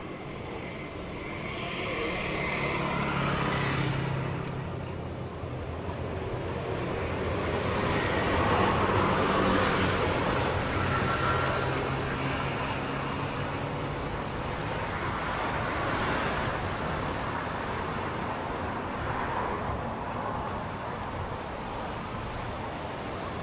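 Street traffic: cars passing one after another, each swelling and fading, with the loudest pass about nine seconds in.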